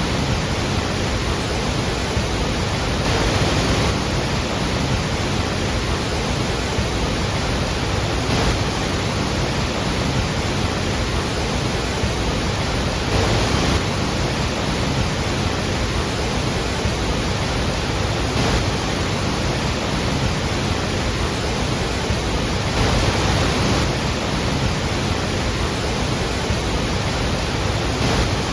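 Iguazu Falls waterfall roar: a steady, dense rush of falling water, swelling slightly every few seconds.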